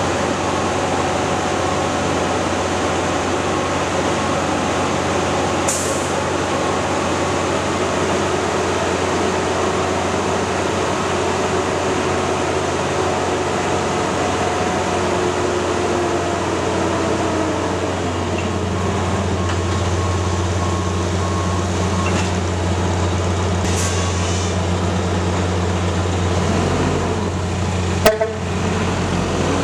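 Mack Granite roll-off truck's diesel engine running steadily, its pitch dipping and rising again just past the middle. Two short hisses, about 6 s and 24 s in, and a single sharp clank near the end.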